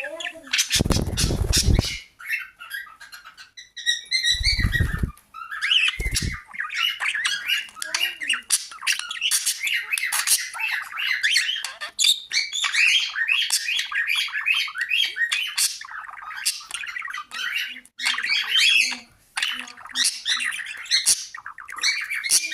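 Pet parrot chattering and squawking almost without pause, in quick strings of short calls. Three loud bursts of rustling noise break in during the first six seconds.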